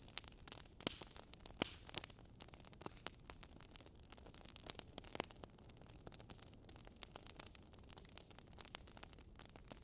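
Wood fire crackling: irregular sharp pops and snaps over a soft steady hiss, one louder pop about one and a half seconds in.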